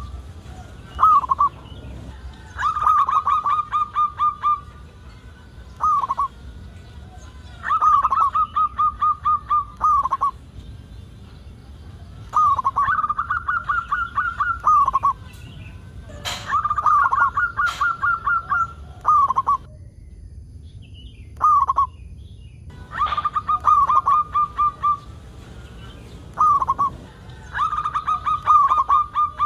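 A local zebra dove (perkutut) cooing steadily, in repeated phrases of rapid, evenly spaced staccato notes about one and a half to two seconds long. A short single note comes between the phrases, and there is a brief pause about two-thirds of the way through.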